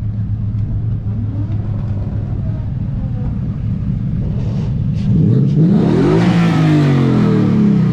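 Car engines idling with a steady hum, then about five seconds in it gets louder as an engine revs, its pitch rising and falling.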